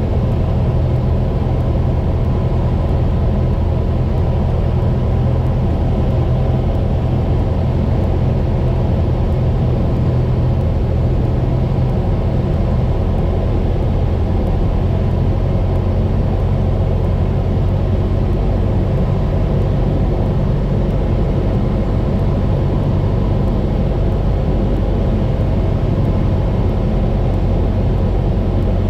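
Cessna 172 single-engine airplane's piston engine and propeller droning steadily on final approach to landing, the pitch of the low hum shifting about twelve seconds in.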